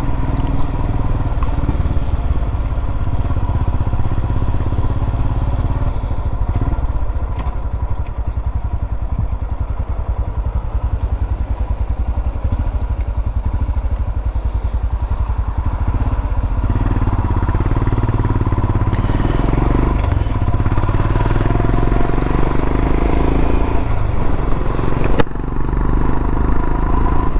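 Royal Enfield Himalayan's single-cylinder engine running on the road, a steady pulsing exhaust note. Its sound grows fuller for several seconds in the second half.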